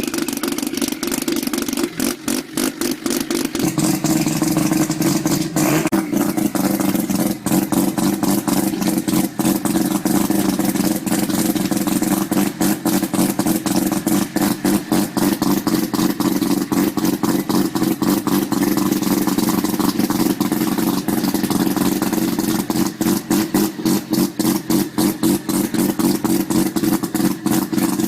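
Methanol-fuelled turbocharged 13B twin-rotor Mazda rotary engine running at a steady, choppy idle, with constant sharp popping through the exhaust; its note shifts slightly about four seconds in.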